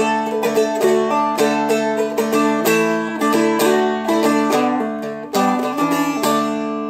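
Seagull Merlin M4 strummed in full chords, mostly D with a quick A and a climbing run near the end, the last chord ringing out.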